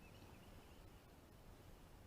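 Near silence: faint background noise only.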